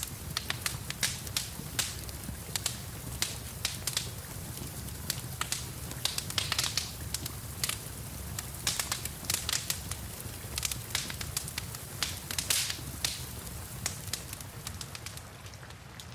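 Wood fire crackling and popping in irregular sharp snaps over a steady low rumble and a soft hiss of rain. The pops thin out near the end.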